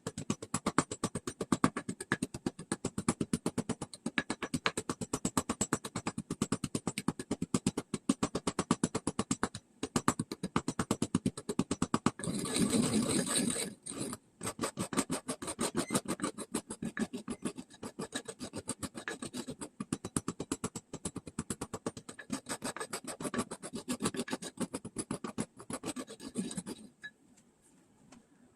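Himalayan pink rock salt being ground by hand into powder: a fast, even run of rasping, scraping strokes, with a short steadier grinding stretch about halfway through, stopping shortly before the end.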